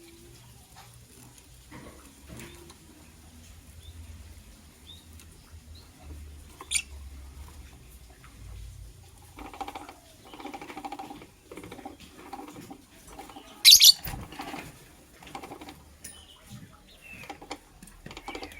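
Lovebird giving short, shrill calls: one about a third of the way in and a loud doubled call about three-quarters through, with softer irregular sounds between them.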